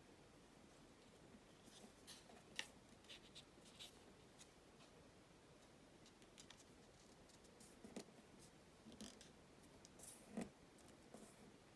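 Origami paper being folded and creased by hand: faint scattered rustles and crisp clicks, with the sharpest snaps about two and a half seconds in and again near the end.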